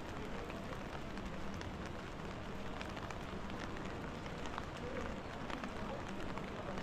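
Steady rain falling on a wet city street, with many small ticks of drops striking close by.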